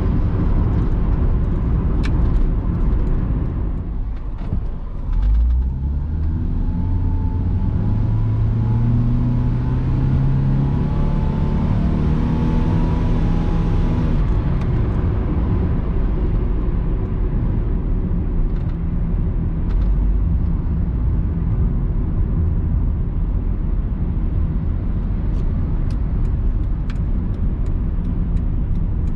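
Inside the cabin of a 2001 Honda Capa 1.5 with its automatic (CVT) transmission on the move: engine and road noise. From about five seconds in, the engine note climbs steadily under acceleration for about nine seconds, then drops back.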